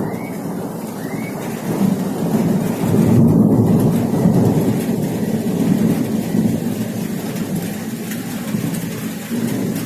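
Thunder rolling during a heavy thunderstorm, with rain falling. The rumble swells about three seconds in, then slowly dies away.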